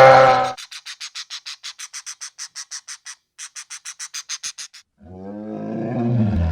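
A series of animal calls. The loud end of a deep call stops about half a second in. It is followed by a rapid, even string of short high-pitched chirps, about six a second, for some four seconds. Another drawn-out call starts about five seconds in.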